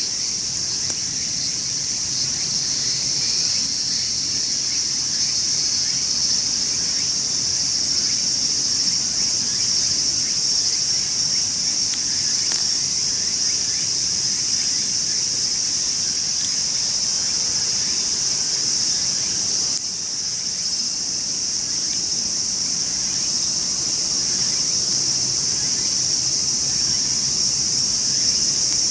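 A steady chorus of insects: a continuous high-pitched buzz that dips briefly about twenty seconds in.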